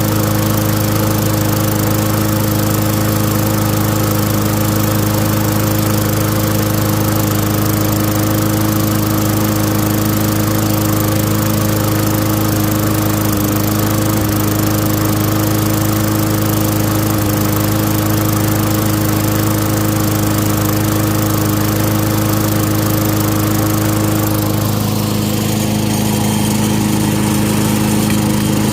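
Tecumseh single-cylinder engine on a Craftsman walk-behind lawn mower running steadily, revived on its first start after cleaning; its tone shifts slightly about 25 seconds in.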